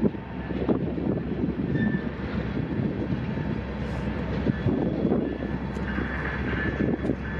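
Wind buffeting the microphone over a steady low rumble of a train's diesel locomotives on BNSF's Powder River coal line.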